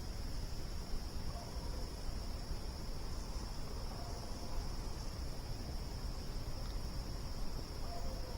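Steady chorus of crickets, a constant high-pitched trill, over a low rumble.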